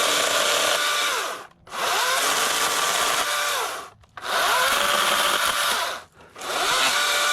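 Wild Badger 40-volt brushless cordless chainsaw cutting dead bushes in repeated trigger bursts of about two seconds each. Its whine rises as the chain spins up and falls as it winds down, with short gaps between bursts, three and a half runs in all.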